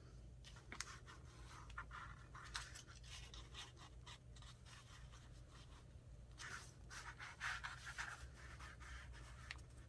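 Faint rustling, scratching and small taps of craft materials such as fabric and paper being handled on a tabletop, in two busier spells, over a low steady hum.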